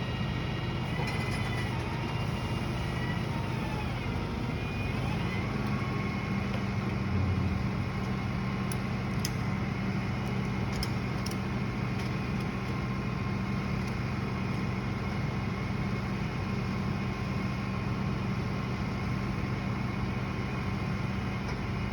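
A motor vehicle running steadily: a constant low engine hum, with a faint whine that shifts in pitch during the first few seconds.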